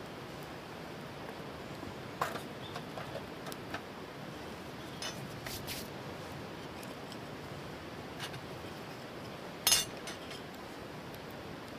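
A few light clinks and knocks of camp cookware and utensils being handled, the loudest near the end, over a steady background hiss.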